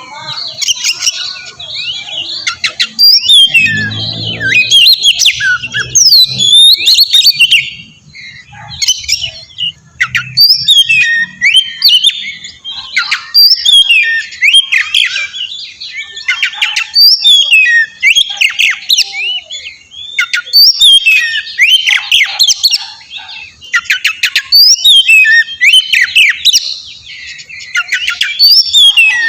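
Oriental magpie-robin (kacer) singing loudly in quick runs of varied whistles and harsh notes, phrase after phrase with short pauses, the kind of song played as a lure to make other kacer answer.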